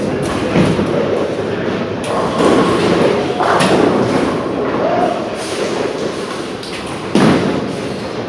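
Bowling alley din: bowling balls thudding onto and rolling down the lanes, and pins crashing. The sharpest crash comes a little after seven seconds in, and another about halfway through.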